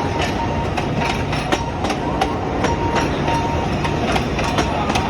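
Alishan Forest Railway train rolling slowly past, its wheels clicking over the rail joints in an uneven run of a few clicks a second over a steady low rumble, with a thin steady high tone.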